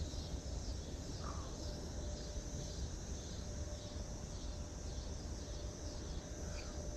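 Steady insect chorus, high and pulsing, over a low rumble, with a faint short chirp about a second in.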